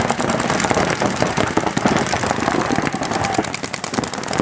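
Paintball markers firing rapid, continuous strings of shots, many overlapping in a dense rattle.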